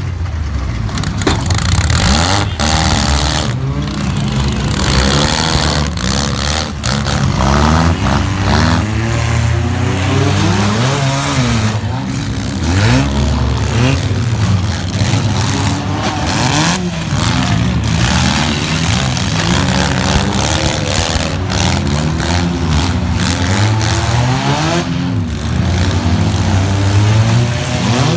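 Several four-cylinder demolition derby car engines revving at once, their pitch rising and falling constantly as the cars accelerate and back off, with the bang of a car collision now and then.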